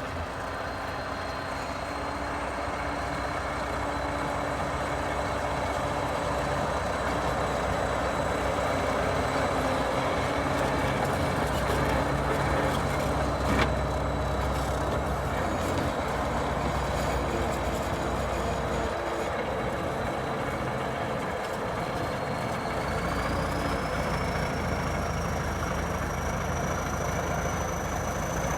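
Heavy diesel tractor engine running steadily while pushing snow, with a high whine rising in pitch about three quarters of the way through and a single sharp click about halfway.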